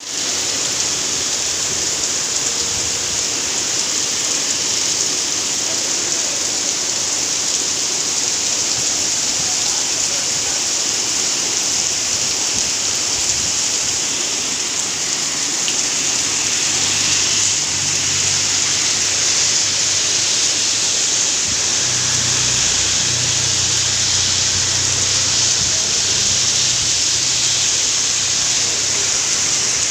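Heavy rain falling steadily: a dense, even hiss. A faint low hum joins in about halfway through.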